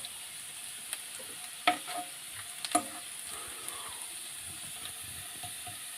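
Ginger and garlic frying in hot oil in a pan, a steady sizzle, with two sharp clicks of stirring about two and three seconds in.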